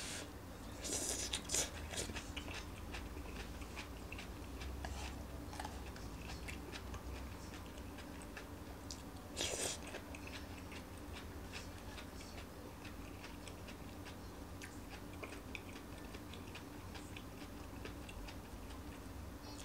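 A person chewing and eating a mouthful of stir-fried vegetables close to the microphone: a continuous run of small, wet mouth clicks and chewing sounds, with louder bites about a second in and again about halfway.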